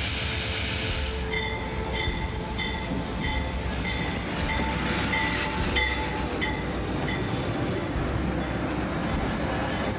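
A train rumbling steadily, with a bell ringing about twice a second. The bell starts a little over a second in and stops about seven and a half seconds in.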